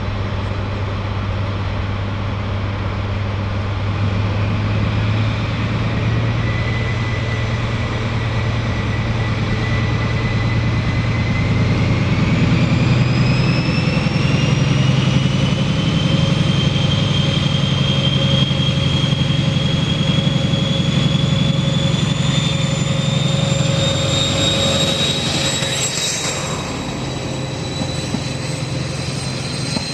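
A train running close by with a steady low drone. From about a third of the way in, a high whine climbs steadily in pitch as the train gathers speed, and there is a brief clank near the end.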